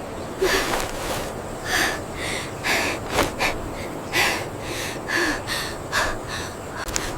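A person breathing hard, with quick, gasping breaths in and out, about one to two a second.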